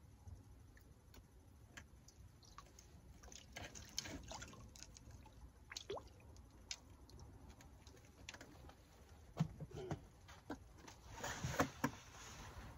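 Faint drips and small splashes of water with scattered light clicks and knocks, the busiest stretch near the end.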